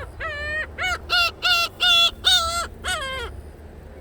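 Gulls calling: a quick run of about seven short, harsh, pitched calls, ending a little over three seconds in.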